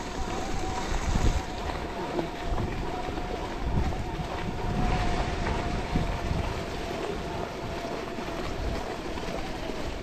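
Wind buffeting the camera microphone and tyres rumbling over the trail while a mountain bike is ridden, with gusty low thumps and a faint steady whine.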